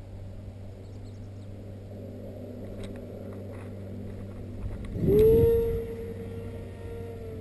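Electric motor and propeller of a HobbyKing Skipper RC plane: about five seconds in a buzzing whine sweeps sharply up in pitch and then holds steady, loudest as it comes in, over a steady low hum.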